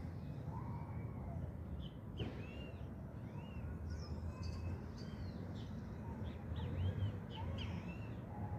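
Birds chirping in many short, quick calls, thickest from about two seconds in, over a steady low rumble.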